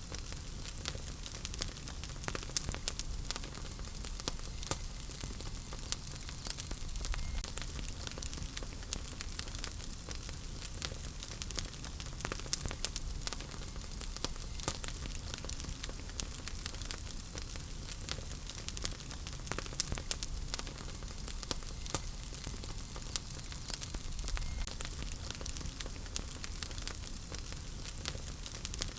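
Wood fire crackling in a fireplace: a steady hiss of burning with many small irregular pops and snaps.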